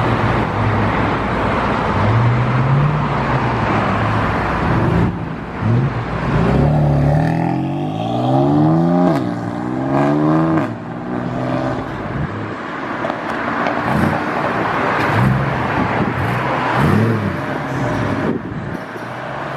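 Performance cars' engines revving and accelerating away, their pitch rising and falling. About eight seconds in, one car pulls hard through an upshift: a long climb in pitch, a sudden drop, then a second climb. Later come a few short sharp cracks from the exhausts.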